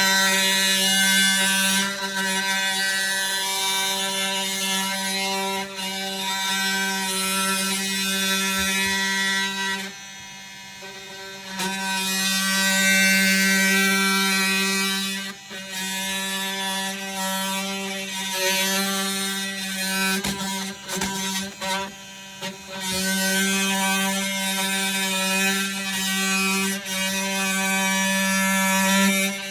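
Oscillating multi-tool running at a steady high-pitched buzz as it cuts through a board. It drops off briefly about ten seconds in and stutters several times around twenty seconds.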